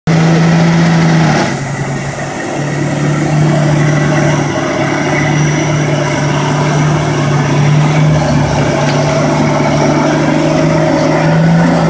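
Nissan Patrol 4x4's engine held at steady high revs under load as the truck pulls through deep mud. The revs drop for about a second near the start, then climb back and hold.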